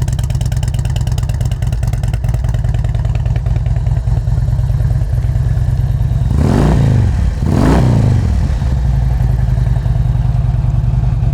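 2007 Harley-Davidson Street Glide's 96-cubic-inch V-twin idling through Rinehart true dual exhausts, with two quick throttle blips about a second apart roughly two-thirds of the way through.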